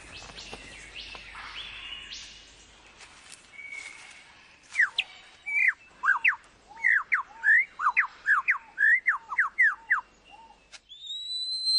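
Superb lyrebird singing: after a few seconds of quieter forest sound with faint calls, a loud run of rapid whistled notes sweeping up and down, about a dozen in quick succession, breaks off suddenly near the end, where a rising whistle begins.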